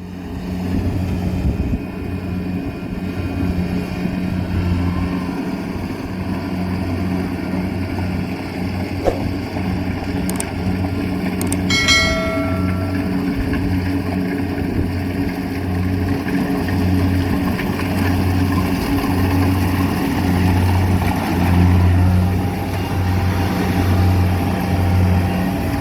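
Rice combine harvester's engine running steadily under load, its low hum rising and falling in level every second or so. A short ringing tone sounds once, about twelve seconds in.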